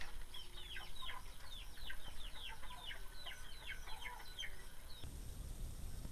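Chicks peeping: a rapid series of short, high, falling chirps that stops about five seconds in, followed by a low steady rumble.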